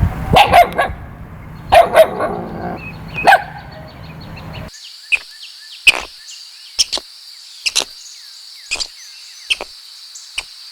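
A dog barking, five short barks in pairs and singles over the first few seconds. Partway through the sound changes abruptly to a steady high hum with scattered sharp clicks.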